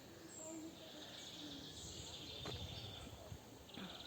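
Faint outdoor ambience with high chirping trills of small birds, one long trill in the middle and another starting near the end, and a light click about two and a half seconds in.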